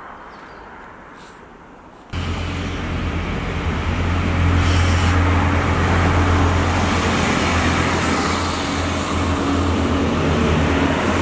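Light outdoor ambience, then from about two seconds in an Irish Rail Class 29000 diesel multiple-unit train running loudly with a steady low engine drone as it pulls in alongside the platform.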